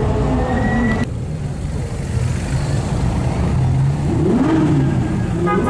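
Sports car engines running at low speed, with one engine revving up and falling back about four seconds in.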